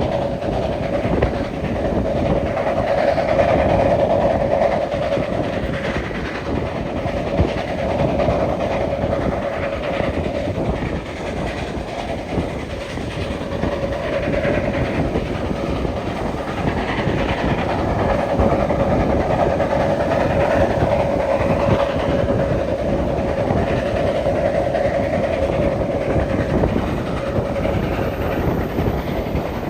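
Steam-hauled passenger train running steadily along the track, its wheels and coaches rattling on the rails in a continuous dense noise that swells and eases.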